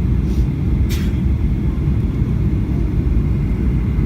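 Steady low rumble in the cabin of a Boeing 737-800 in flight: its CFM56-7B engines and the airflow around the fuselage. A short sharp click sounds about a second in.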